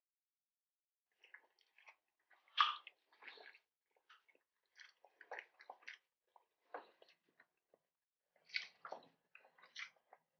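Faint chewing of crispy fried calamares and shrimp tempura: scattered wet mouth clicks and soft crunches, the loudest about two and a half seconds in.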